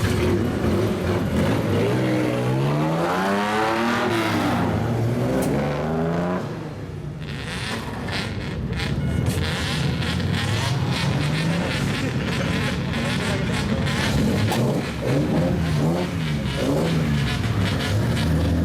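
Lowered kaido-racer cars running loud straight-pipe takeyari exhausts, with an engine revved up and back down a few seconds in and more short blips of the throttle near the end.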